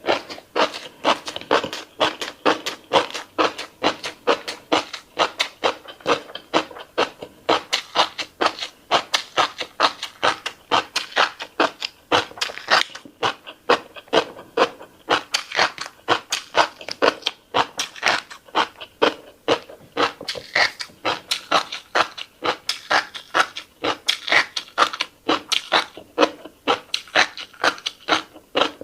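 Close-miked mouth sounds of someone eating fish roe: rapid chewing, smacking and popping clicks, about two to three a second without a break.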